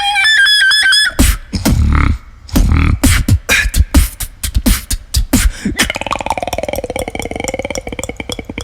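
Vocal beatboxing: a short pitched, whistle-like tone that dips slightly, then a run of sharp drum-like kick and snare hits, then from about six seconds in a fast buzzing roll whose pitch wavers.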